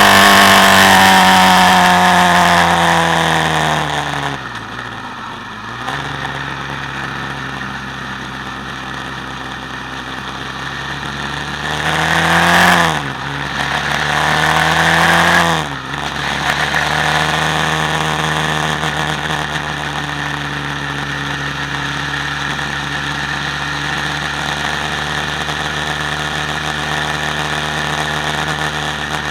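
Quad bike engine winding down from high revs to a low idle over the first few seconds. Near the middle it revs up twice, each rev dropping off suddenly, and then it runs steadily at low revs.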